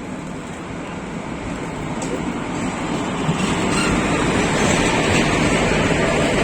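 Passenger train pulling into the platform: a dense rumble of wheels on rails that grows louder from about two seconds in, then holds steady.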